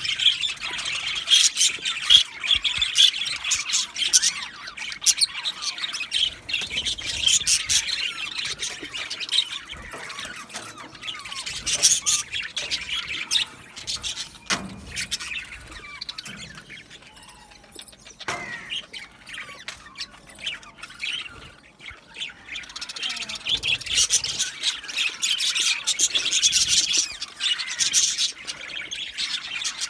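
A flock of budgerigars chattering, chirping and squawking together in a dense overlapping warble. The chorus thins out for a few seconds past the middle and swells again near the end.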